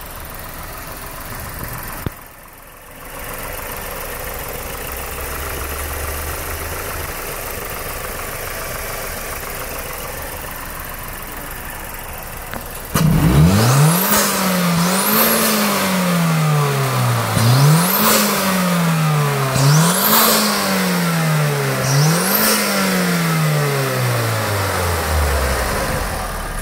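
Mazda 6 MPS 2.3 MZR turbocharged four-cylinder, heard through an open cone air filter. It idles steadily at first, then is revved hard about five times about halfway through. Each blip brings loud intake roar and a high turbo whistle and hiss that sweep away as the revs fall, and the engine drops back toward idle near the end.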